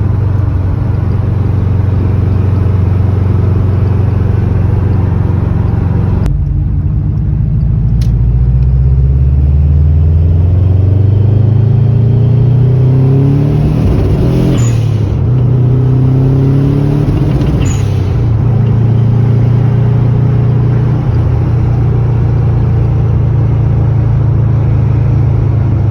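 Subaru Legacy's EJ22 flat-four engine running and pulling the car away: the revs climb, drop at a gear change, climb again, then settle to a steady cruise.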